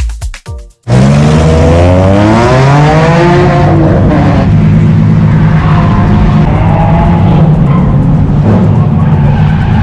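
A car engine running hard at high revs, its pitch climbing over a couple of seconds and then holding, with a steady noisy haze under it. This comes after a hard cut from a second of electronic dance music.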